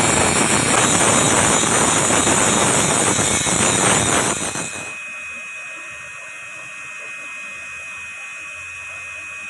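A power tool running loudly and steadily with a thin whine, then dropping sharply to a quieter steady whir about four and a half seconds in.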